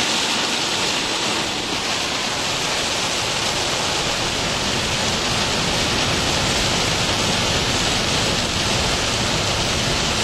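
Heavy rain on a vehicle, heard from inside as a steady, even hiss.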